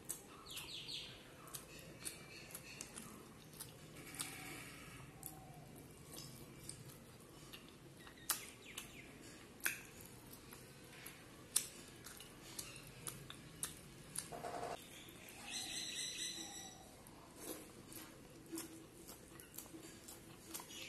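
Quiet wet chewing and lip smacks of a person eating mutton fat curry and rice by hand, with many short sharp clicks scattered throughout.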